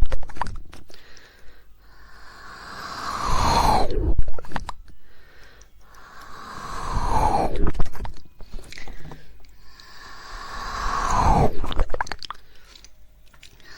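Close-miked ASMR mouth sounds: about every four seconds a wet, airy swell builds up and falls away, followed each time by a quick cluster of tongue clicks.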